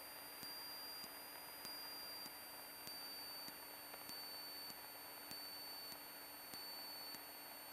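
Faint electrical hiss on an aircraft intercom and radio audio feed: steady high-pitched whines, a low hum, and a soft tick just under twice a second.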